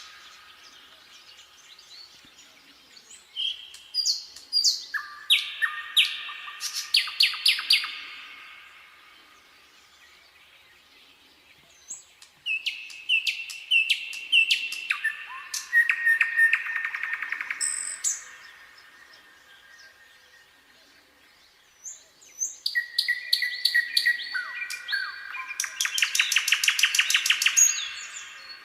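Nightingale singing: three phrases of whistles and fast repeated trills, with pauses of a few seconds between them.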